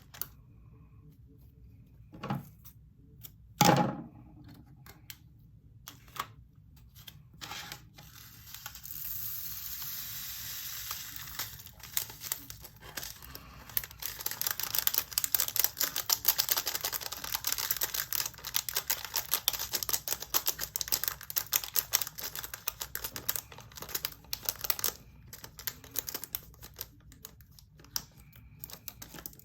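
Diamond painting drills, small plastic resin pieces, rattling and pouring into a plastic storage container: a dense run of rapid tiny clicks through most of the second half. Before it there is a soft rustle and a couple of knocks.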